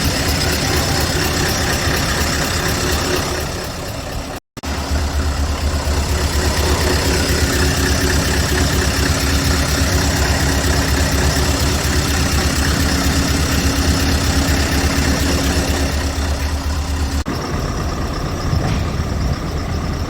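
Scania R580's 16-litre V8 diesel idling steadily. The sound cuts out for an instant about four and a half seconds in, and its low rumble changes abruptly a few seconds before the end.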